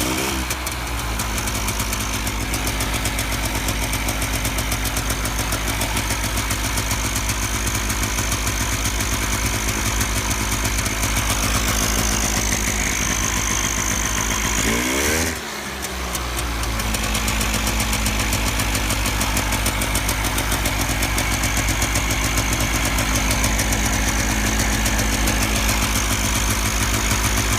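1999 Polaris Scrambler 400's single-cylinder two-stroke engine running steadily at idle just after being brought back from a seized state. About halfway through, its speed sags briefly and picks back up.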